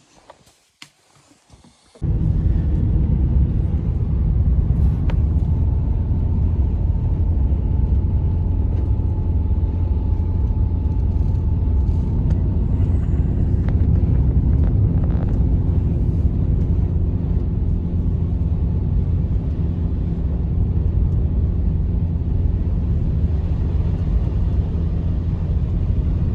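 Strong blizzard wind rumbling loudly and steadily on the microphone. It starts abruptly about two seconds in, after a near-quiet moment.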